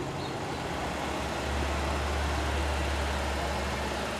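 Car engine idling steadily, its low hum growing louder about a second and a half in.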